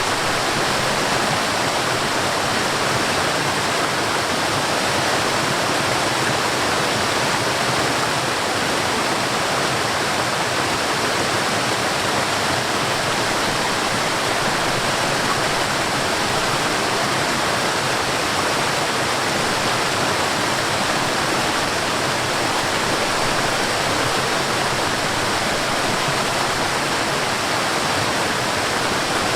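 Mountain stream and waterfall: water rushing in a steady, even roar that never breaks or changes.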